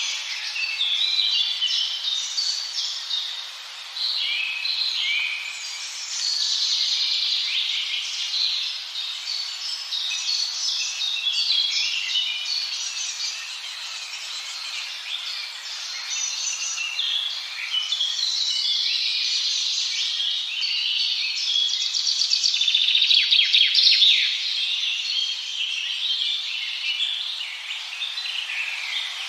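Many birds chirping and singing at once, a dense chorus of overlapping high chirps and trills with no break; a fast trill stands out near the end, the loudest part.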